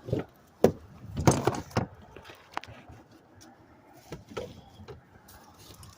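A few separate knocks and clunks of hard objects being handled, the loudest about a second in.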